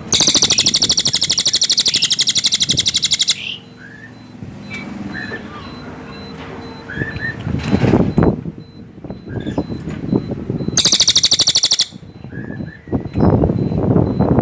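Cililin bird singing: a loud, very fast, high trill for about three seconds at the start and again for about a second later on, with a few short chirps in between.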